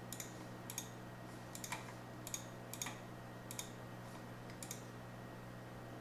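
Faint, irregular light clicks and taps, about seven spread across a few seconds, over a low steady hum.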